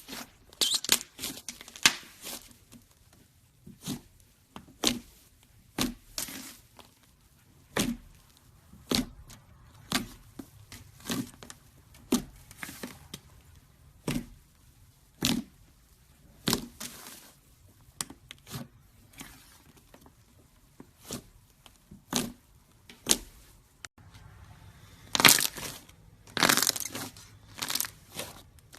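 Dry clay cracking and crumbling under pressure: sharp single cracks about once a second, with denser crackling at the start and a louder run of crackles near the end.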